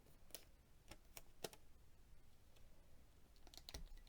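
Near silence with a few faint, scattered clicks and taps from small objects being handled.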